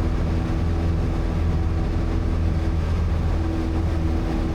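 Small piston-engine airplane's engine and propeller droning steadily in the climb, a constant low hum with a few steady higher tones over it.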